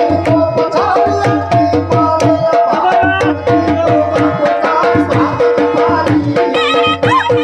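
Gujarati folk music: a sarnai reed pipe plays sustained, ornamented melody notes over fast, steady hand-drumming on a dhol.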